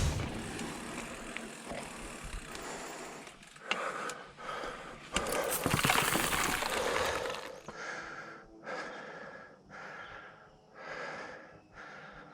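A mountain biker breathing hard, picked up by a helmet or chest camera, over tyre and trail noise. The ride noise is loudest around the middle, and after that the breaths come as separate pants about once a second.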